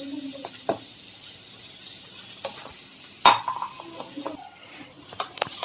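Spoon stirring a wet flour and cornflour batter in a bowl: soft, uneven mixing noise with scattered light clicks of the spoon on the bowl, and one sharper knock a little over three seconds in.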